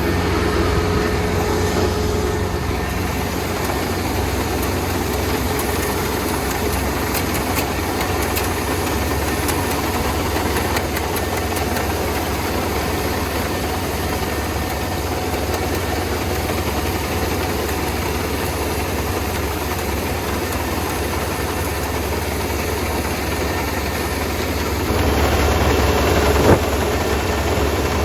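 Vehicle engine running steadily, louder for the last few seconds, with one sharp knock near the end.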